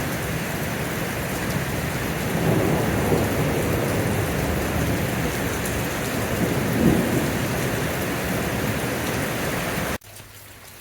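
Heavy rain pouring down in a thunderstorm, with low rumbles of thunder swelling through it. Near the end it cuts off abruptly to a much quieter background.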